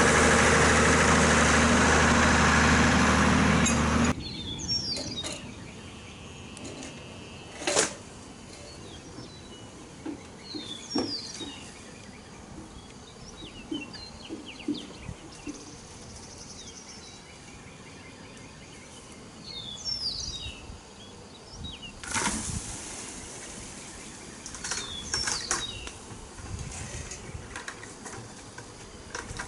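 A vehicle engine idling steadily, switched off about four seconds in. After it stops, birds chirp repeatedly, with a few knocks, a sharp thump near eight seconds and a short rush of noise a little past twenty seconds.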